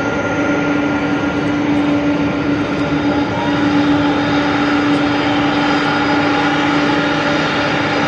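Jet engines of a three-engine airliner running loud and steady: a constant rush with a strong steady hum and fainter high whining tones over it.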